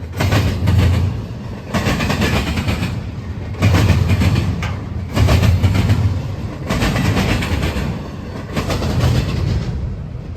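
Freight train cars rolling past at close range, the steel wheels clacking over rail joints. The sound swells in a regular beat every second and a half to two seconds as each wheel set goes by.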